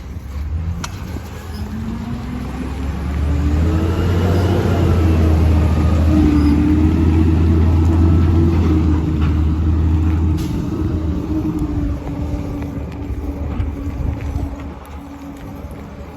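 Truck engine rising in pitch as it speeds up over the first few seconds, then running steadily with a strong low drone that drops away about ten seconds in.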